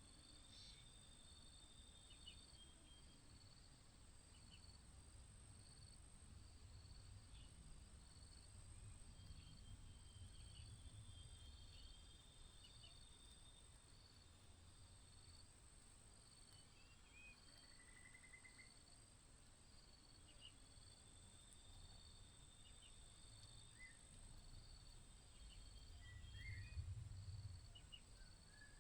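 Faint outdoor ambience: insects trilling, one steady and high, another pulsing regularly, with a few brief faint chirps and a low rumble that swells twice.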